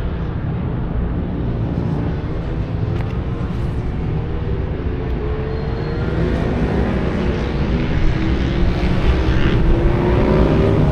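Motorcycles running on the race circuit, their engine pitch rising and falling as they accelerate and shift, with a steady low rumble underneath.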